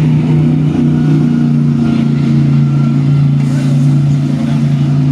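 GT3 race car engine running at speed on track, a loud, steady drone that holds nearly the same pitch throughout.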